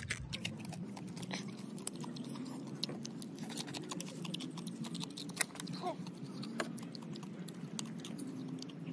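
Close-up chewing and crunching of cooked crab: a person biting and sucking at crab shell pieces, with many small sharp clicks and crunches, thickest in the first few seconds.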